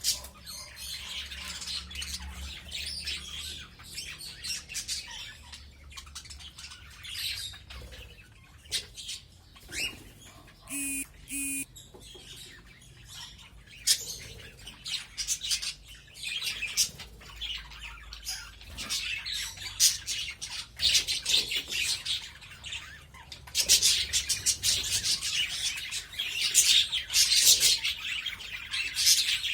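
A flock of budgerigars chattering, a dense run of chirps and warbles that grows louder over the last few seconds.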